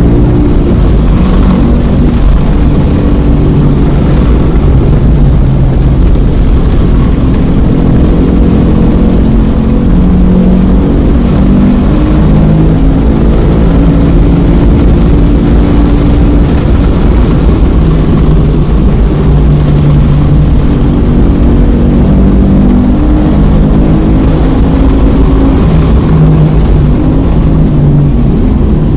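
Sports car engine driven hard at racing speed, heard loud from inside the cabin, with wind and tyre noise.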